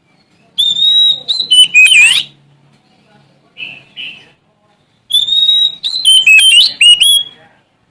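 Oriental magpie-robin (Sumatran kacer) singing: two loud phrases of clear, sliding whistles, one about half a second in and one about five seconds in, with two short softer notes in the gap between them.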